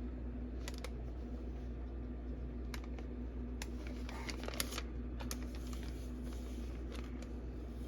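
Handling of a comic book: a few short, light clicks and taps spread through, over a steady low hum.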